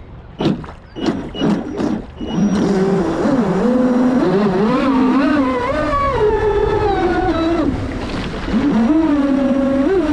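Traxxas Spartan RC racing boat's brushless electric motor whining, its pitch rising and falling with the throttle, after a few short blips in the first two seconds. The whine eases briefly near the end, then picks up again.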